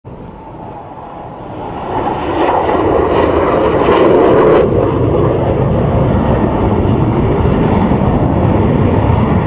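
Jet fighter aircraft passing, its noise swelling over the first two seconds to its loudest around four seconds, then settling into a steady deep rumble.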